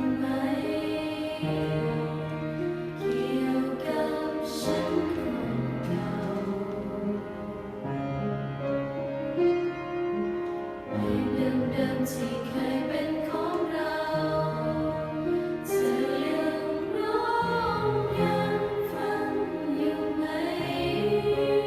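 A choir singing sustained chords in four-part harmony, with soprano, alto, tenor and bass parts.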